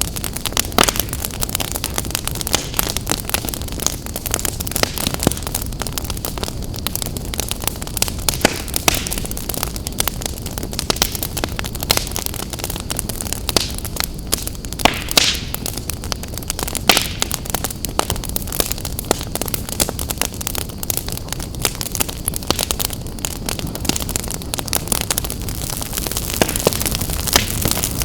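Wood fire burning in a fireplace: a steady low rumble and hiss of the flames with continual crackling and sharp pops, a few louder pops in the middle.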